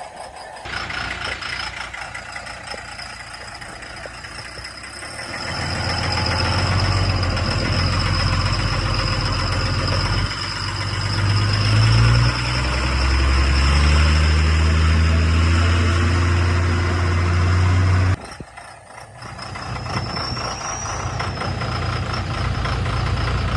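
Dodge Ram monster truck's engine running, then held at high revs for about twelve seconds with its pitch climbing in steps. The revs drop suddenly, then the engine picks up again. A steady high whine runs alongside the engine.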